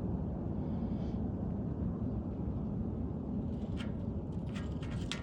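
Steady low outdoor background rumble, with a run of sharp clicks starting near the end.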